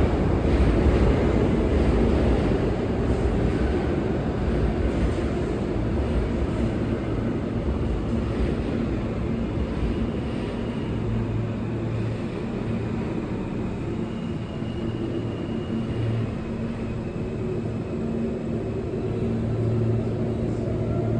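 New York City subway train running at the platform, a steady low rumble with a motor hum and a faint high whine. The rumble is loudest at the start, then holds fairly even.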